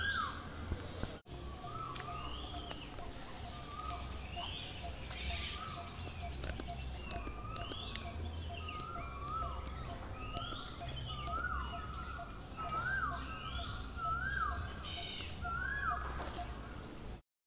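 Birds chirping and calling repeatedly, short rising and falling notes coming every second or so, over a low steady rumble. The sound cuts off abruptly near the end.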